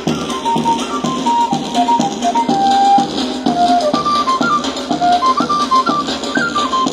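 Pandilla dance music: a flute melody moving in short stepped notes over a steady drum beat and shaking maracas.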